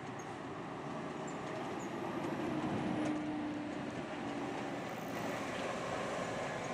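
Steady road and engine noise heard inside a moving Scania K360IB city bus. A faint hum comes in about two seconds in and fades again near the five-second mark.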